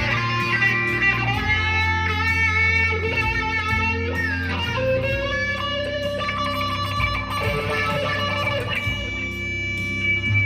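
Electric guitar played through a Blackstar ID15 TVP amp with a Dunlop Cry Baby wah pedal: held notes ringing over one another, with a note sliding in pitch about halfway through.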